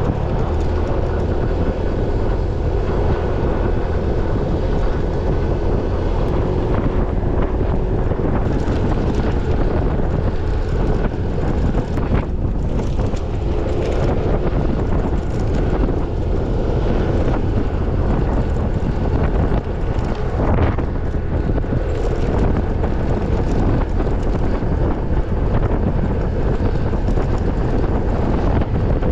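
Steady, loud rushing noise of a waterfall, unbroken and without rhythm.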